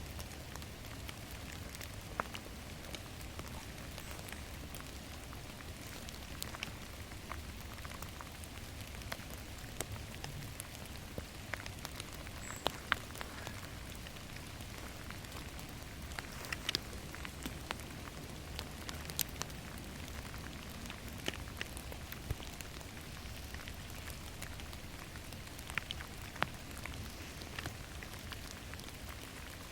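Steady rain falling in a forest, with many scattered sharp drip ticks over a constant hiss.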